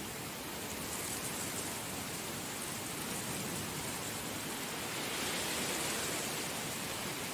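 Heavy rain falling steadily, a dense even hiss that swells slightly about five seconds in.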